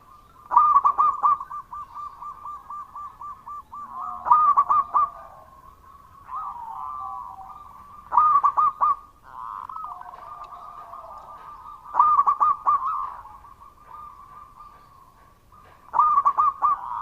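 Zebra doves (perkutut) cooing: a loud phrase of rapid staccato coos begins about every four seconds, five times over, with softer cooing in between.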